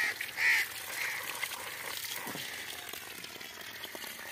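A bird calling in a regular series, about two calls a second; the last call comes about a second in, then only a steady background hiss remains.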